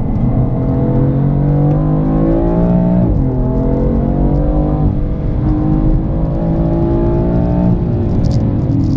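BMW M4's twin-turbo straight-six accelerating hard, heard from inside the cabin: the engine note rises through the revs, drops sharply at upshifts about three seconds in and again around five seconds, then climbs again.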